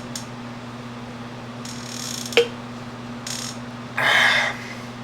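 A knife blade scraping the faded surface of a plastic motocross gas tank in a few short strokes, the loudest near the end, with a sharp click about two and a half seconds in. A steady low hum runs underneath.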